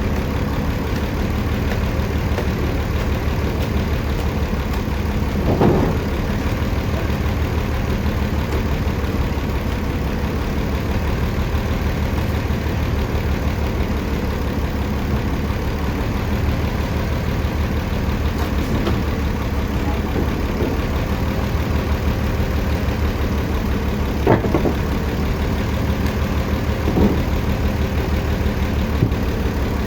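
Sawmill engine running steadily with a fast, even low throb, and a few short knocks and clatters, one near the start and a couple near the end.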